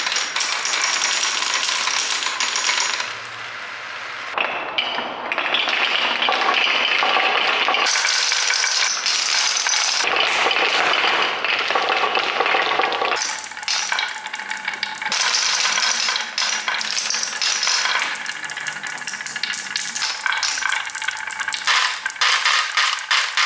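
Marbles rolling and clattering down a marble run, a dense stream of small clinks and rattles that comes in waves, easing off and picking up again every few seconds.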